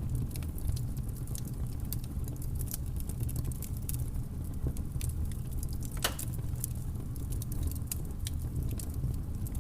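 Wood campfire crackling: irregular sharp pops and snaps over a steady low rumble, with one louder pop about six seconds in.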